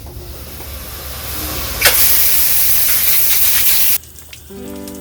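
Pressurised water spraying from a leaking PVC pipe: a hiss that grows louder, a sharp click just before two seconds in, then a loud steady hiss that cuts off abruptly about four seconds in. Music starts shortly after.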